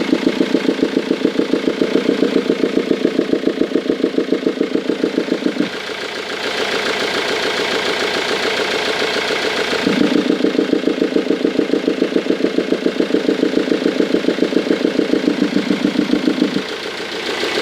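Ford Mondeo 2.0 TDCi four-cylinder diesel idling with a fast, regular clacking heard at the air intake. The owner takes it at first guess for an intake valve that does not close properly, from carbon build-up or a sticking valve. The clacking is loud for the first six seconds, weaker for about four seconds, then loud again until near the end.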